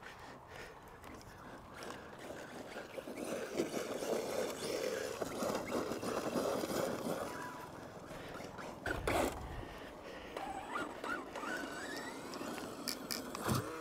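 Arrma Mojave brushless RC truck running at a distance, faint, its motor whine rising now and then, with a short knock about nine seconds in.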